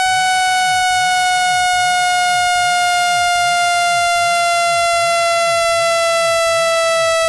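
Synthetic speaker-cleaning tone: a loud, steady, buzzy electronic hum with many overtones, sliding slowly down in pitch. It is played to vibrate a speaker's membrane and push out trapped water and dust.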